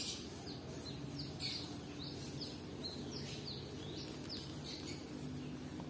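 A small bird chirping: a run of short, quick chirps, each falling in pitch, about two a second, over a faint steady low hum.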